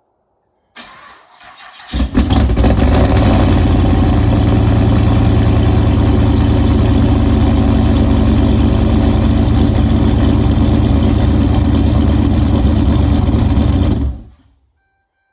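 2006 Pontiac Grand Prix GXP's 5.3-litre LS4 V8 cold-started on E85: about a second of starter cranking, then the engine catches and runs loud and steady at a fast cold idle, and stops about fourteen seconds in.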